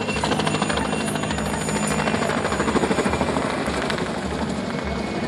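Helicopter flying aerobatic manoeuvres: a fast, even rotor chop over a steady high whine. It grows louder in the first second, peaks about three seconds in, then eases a little.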